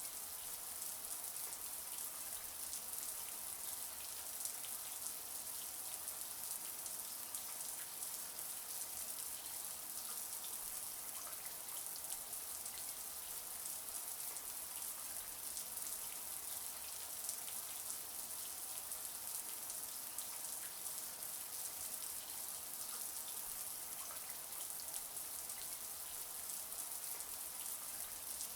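Shower spray running steadily: an even, high hiss of water with fine pattering droplets.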